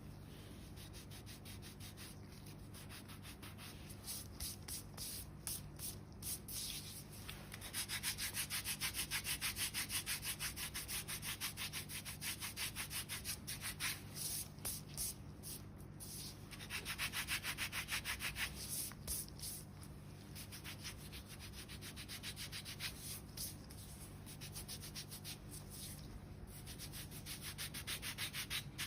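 A foot file scraping rapidly back and forth over the thick, dry skin and calluses of a sole. The strokes come in even runs, with two spells of louder, faster filing.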